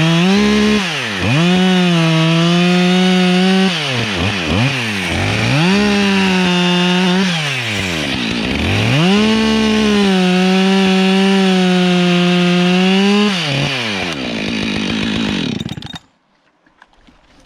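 Two-stroke chainsaw cutting wood at full throttle in several long runs, dropping back toward idle between them with a few quick blips. Near the end it winds down and the sound drops away about sixteen seconds in.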